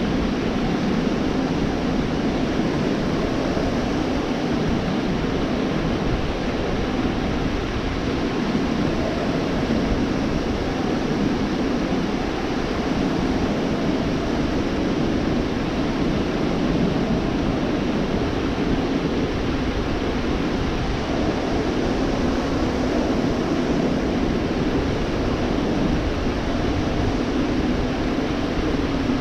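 Ocean surf washing onto a beach: a continuous, even rush of breaking waves with no separate crashes standing out.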